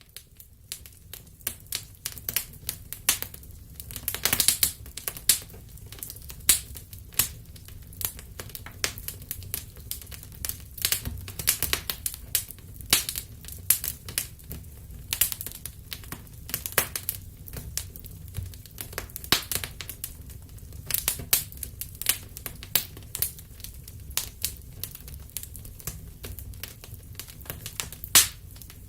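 Wood fire crackling, with irregular sharp pops, several a second and some louder than others, over a low steady rumble of the flames.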